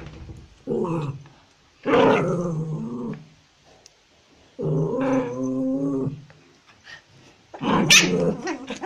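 Dogs growling while a small fluffy puppy and a larger white dog tussle: four drawn-out growls, the longest about five seconds in.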